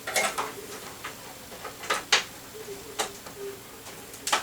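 Scattered light clicks and small knocks from cables and plastic connectors being handled and fitted inside an open PC case, the sharpest about two seconds in.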